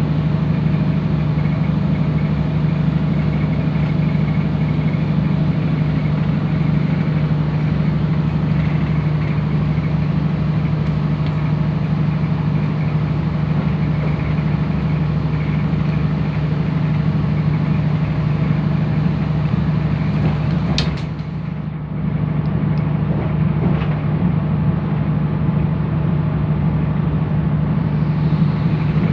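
Steady running noise inside a diesel passenger train travelling at speed: a constant low engine drone with wheel and rail noise. About two-thirds of the way through, a sharp click comes with a brief dip in the sound.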